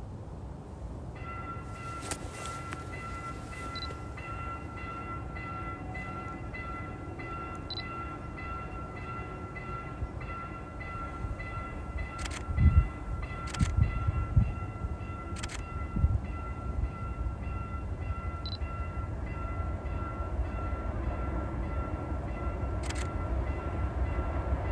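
Railway level-crossing warning bell dinging rapidly and steadily, signalling an approaching train. A low rumble of the train builds near the end, with a few low buffets and sharp clicks along the way.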